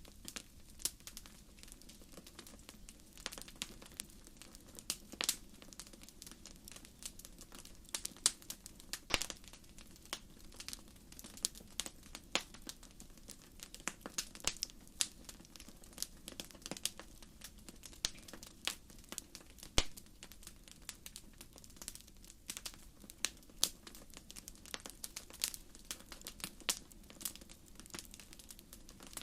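Campfire of burning firewood crackling, with irregular sharp pops and snaps several times a second over a low, steady rumble of the flames.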